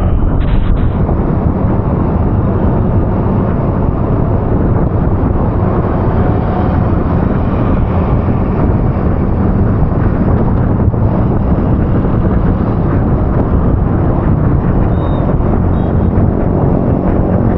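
Steady low rumble of a moving vehicle with wind buffeting the microphone, continuous and unchanging throughout.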